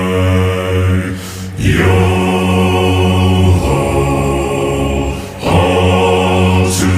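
Low male voices singing a slow pirate song in long held notes. A new phrase starts about a second and a half in and again after about five seconds.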